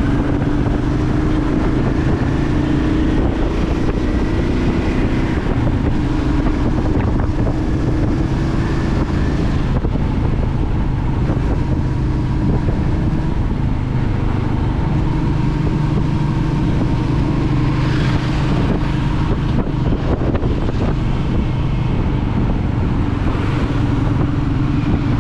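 Royal Enfield Meteor 350's single-cylinder engine and exhaust while the bike cruises at a steady speed, the engine note holding an even pitch.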